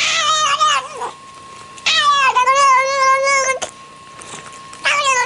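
A cat yowling in three long, drawn-out calls with a wavering pitch. The second call is the longest, about a second and a half, and the third starts near the end.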